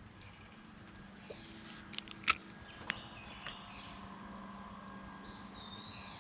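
Birds chirping faintly in quiet outdoor surroundings, with a few sharp clicks about two to three seconds in.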